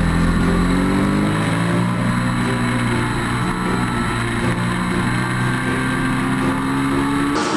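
Yamaha R6 sport bike's inline-four engine running under way. Its note climbs, drops briefly and then climbs steadily again toward the end.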